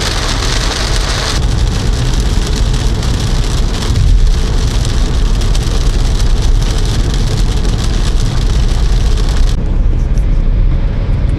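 Heavy rain pouring onto a moving car, heard from inside, over the low rumble of the car and its tyres on the wet road. The rain's hiss thins out abruptly near the end.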